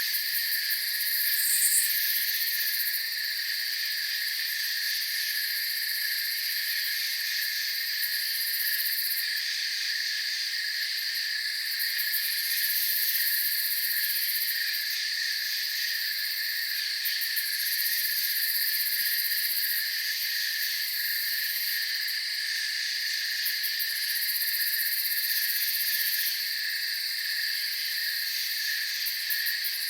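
A night chorus of crickets, a steady high trilling at several pitches that holds without a break, with one short, higher chirp about two seconds in.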